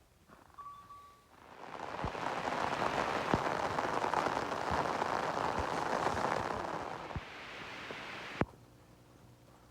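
Rain falling, swelling in after about a second and a half and easing off about seven seconds in, with scattered drop ticks.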